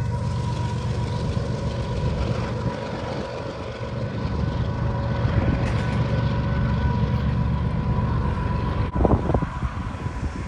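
A freight train passing, its cars rumbling steadily on the rails with a steady high-pitched tone above the rumble; a brief sharp sound about nine seconds in.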